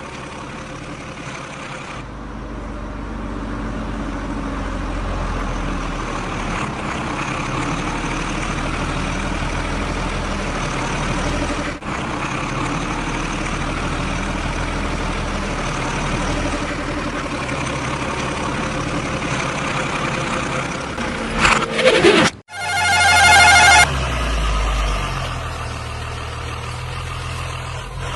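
Heavy diesel engines of a backhoe loader and trucks running steadily at a loading site. Near the end a vehicle horn sounds for about a second with a warbling tone.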